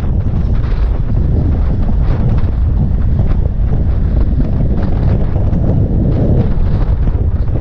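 Wind buffeting a GoPro's microphone on a moving motorcycle, a steady, loud, low rumble.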